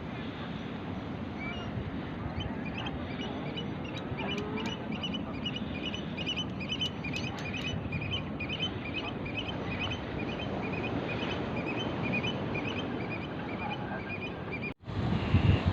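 Birds calling in a quick series of short, high calls, several a second, over a steady rushing noise. A brief cut comes near the end, followed by a louder low rumble.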